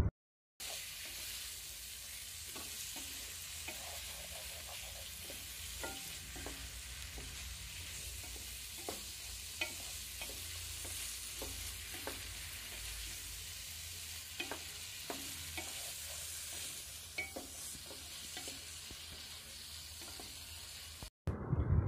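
Chicken pieces frying in a thick, dried-down curry masala in a pan, a steady quiet sizzle, while being stirred, with scattered light taps and scrapes of the utensil against the pan.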